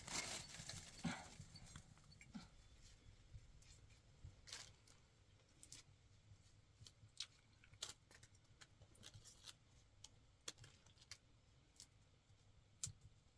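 Near silence with scattered faint clicks and taps, loudest in the first couple of seconds.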